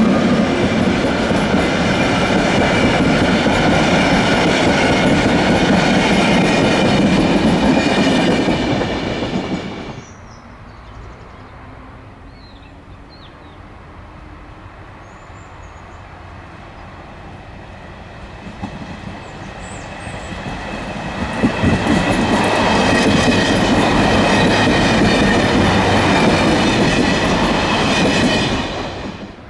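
Passenger coaches rolling past close by, wheels running and clacking on the rails, until the sound cuts off abruptly about ten seconds in. After a quieter stretch, an electric multiple-unit train rumbles past from about twenty seconds until near the end.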